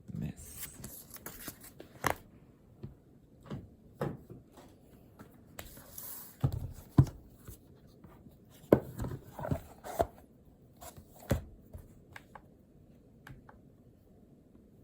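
Handwriting on paper: irregular scratching strokes with scattered light taps, which die away near the end.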